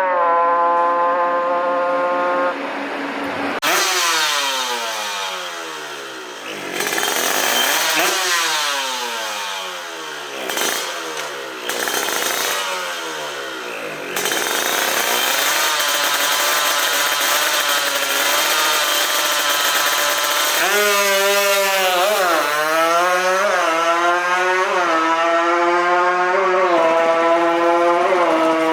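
Modified two-stroke Kawasaki KR150 racing motorcycle engine (59 mm big-bore, open build) at high revs. About three seconds in it accelerates hard, its pitch climbing and dropping back again and again as it shifts up through the gears. Later its revs rise and fall in short swings.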